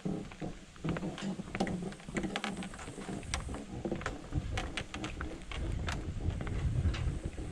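Footsteps crunching and clacking over river stones and gravel, in an irregular walking rhythm.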